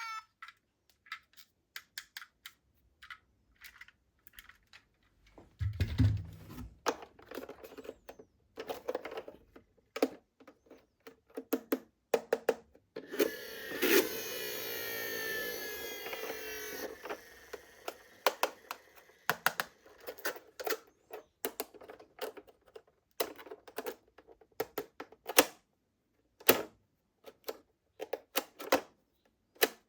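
Small toy police cars being handled and set down: irregular plastic clicks and taps, with a few seconds of steady whirring about halfway through.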